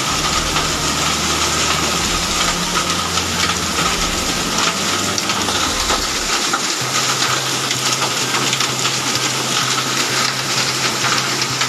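Heavy rain and hail pelting down: a dense, steady hiss with many fine ticks of impacts throughout.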